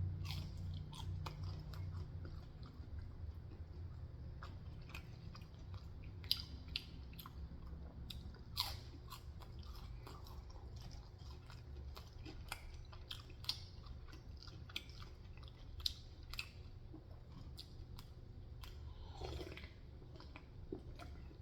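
A person chewing and biting food close to the microphone, with many small sharp mouth clicks and the odd crunch.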